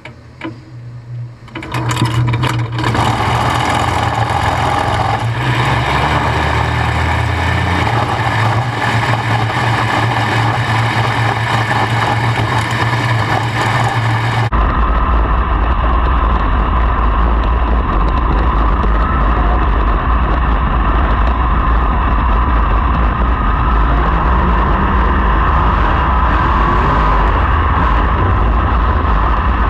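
Sprint car V8 racing engines running loud and steady on a dirt track, after a quieter first two seconds. The engine note changes abruptly about halfway through.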